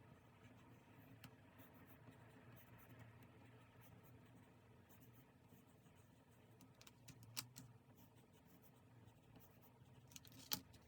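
Faint scratching of pen and paper work at a desk, with two sharp little taps, one about seven seconds in and one near the end.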